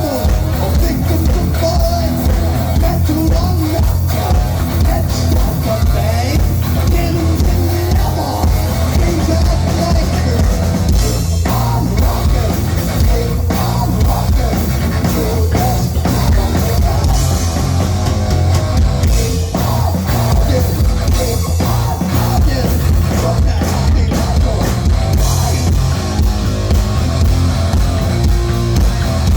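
Heavy metal band playing live at full volume: drum kit, electric guitar and bass together, steady with no breaks.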